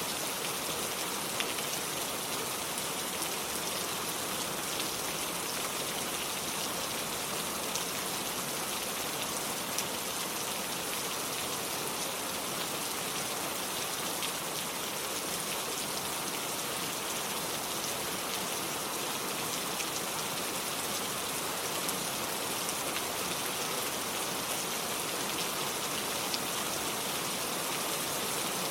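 Steady, gentle rain falling, a constant hiss with scattered single drop ticks standing out now and then.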